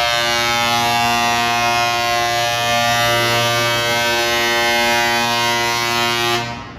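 Truck horn held in one long, steady, buzzy blast that cuts off suddenly near the end.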